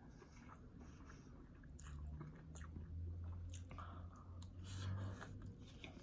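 Close-up chewing and biting of pancit bihon rice noodles, with scattered small wet clicks and crunches. A steady low hum runs from about a third of the way in until near the end.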